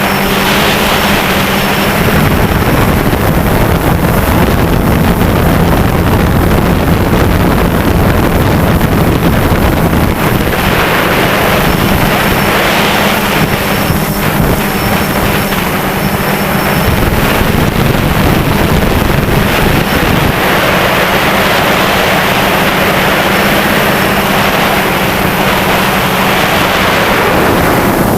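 DJI Phantom 2 quadcopter's propellers running with a steady hum, under loud wind noise on the microphone that swells in several gusts.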